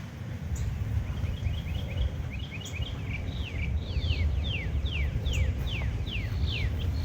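A songbird calling: a run of short chirps, then a series of quick downward-slurred whistled notes, about two a second, over a steady low rumble of outdoor noise.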